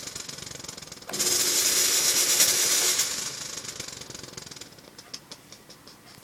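Chauvet Hurricane 700 fog machine firing a burst of fog: its pump buzzes and the fog hisses out for about two seconds, starting about a second in, then fades away.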